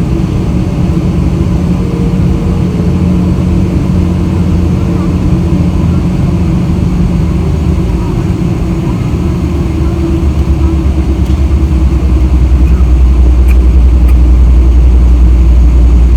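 Boeing 777-300 airliner taxiing: a steady low engine and rolling rumble, which grows louder and deeper about ten seconds in.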